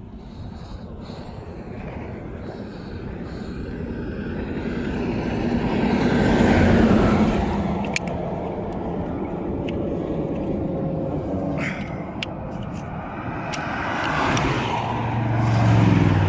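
Highway traffic passing at speed: one vehicle swells past about halfway through, and a second, with a low engine drone, comes up near the end.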